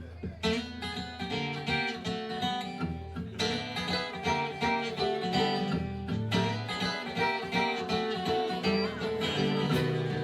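A live band kicks into a song's instrumental intro, with guitar picking and strumming over a bass line.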